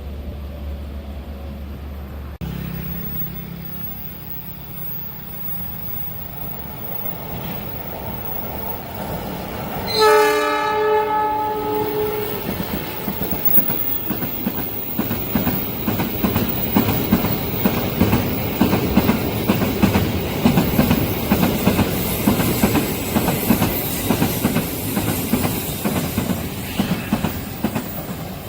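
Passenger or freight train at a level crossing: a rumble grows as it approaches, the locomotive horn sounds once for about two seconds about ten seconds in, then the train passes close with its wheels clattering rapidly over the rail joints. A steady low hum cuts off abruptly about two seconds in.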